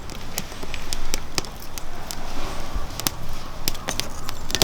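Firewood burning in a fire pit, crackling and popping with irregular sharp snaps over a low steady rumble of the fire.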